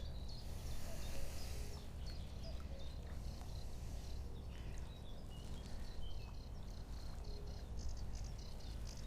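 Small birds chirping and calling repeatedly in short, high notes over a steady low background rumble.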